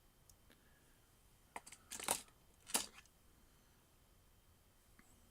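A few light clicks and clacks of small die-cast toy cars being handled and set down, the loudest about two seconds in and another just under a second later.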